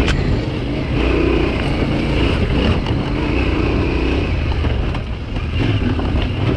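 Yamaha Ténéré 700's parallel-twin engine pulling the bike off-road over mud and stones, the throttle easing briefly about five seconds in. A couple of sharp knocks cut through, one at the start and one near the middle.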